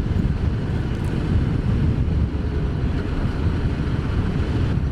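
Ducati Multistrada motorcycle being ridden at a steady speed: an even, low rumble of engine and road noise on the onboard microphone, with no change in revs.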